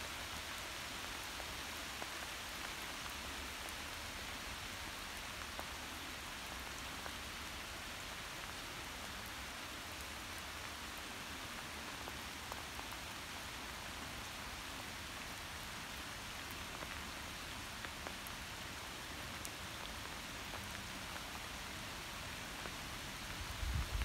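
Steady rain falling, an even hiss with now and then a sharper drop.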